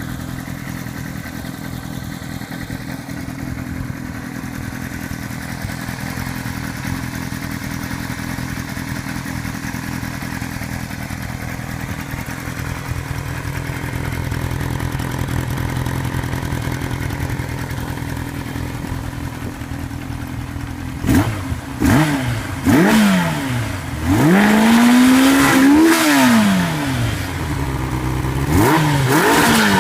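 Kawasaki Zephyr 750's air-cooled inline-four running through an aftermarket NGC muffler, idling steadily, then blipped sharply three times about two-thirds of the way in and revved up and down in longer sweeps near the end.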